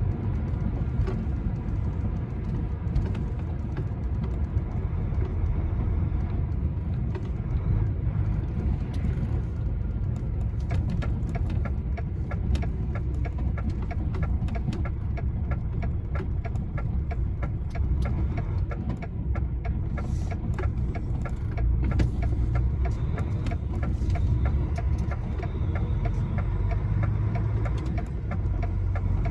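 Lorry engine running and road rumble from inside the cab while driving. A steady, evenly spaced ticking joins in about a third of the way through and runs until near the end.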